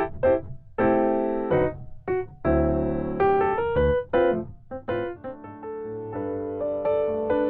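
Piano music: short notes and struck chords at first, giving way to longer held chords from about five seconds in.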